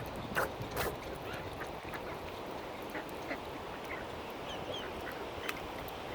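Mallard ducks calling in short, scattered quacks over a steady background hiss, with a few sharp taps about half a second in, near one second, and late on.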